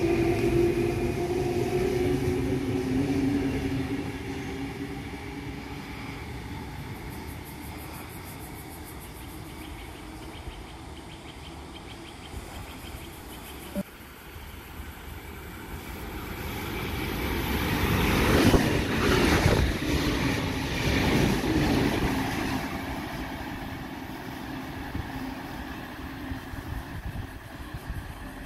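Sydney Trains double-deck electric train pulling away, its motor hum and rumble fading over the first few seconds. Later a second electric train comes through the station, rising to a loud rumble of wheels on rail about 18 seconds in, then fading as it runs off.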